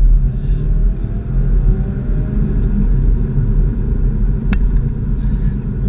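Exhaust of a 2016 Subaru WRX's turbocharged flat-four through a GReddy SP catback, heard from inside the cabin while driving: a steady deep rumble, with the note rising a little in the first couple of seconds. A single sharp click about four and a half seconds in.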